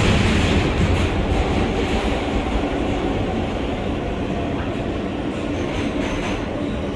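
An R143 subway train running between stations, with a steady rumble of wheels on rail that eases slowly in level.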